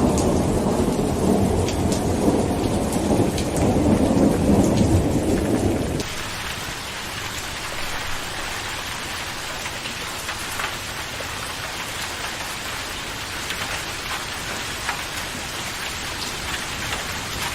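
Heavy rain with a long roll of thunder that cuts off abruptly about six seconds in, leaving steady rain with fine, scattered drop ticks.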